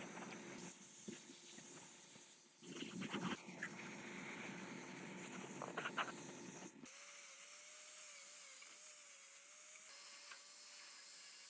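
Hand work on metal parts: rubbing and scraping with scattered clicks and knocks, loudest about three and six seconds in. Then an abrupt change to a faint, steady, slightly wavering whine over hiss, like a small power tool running.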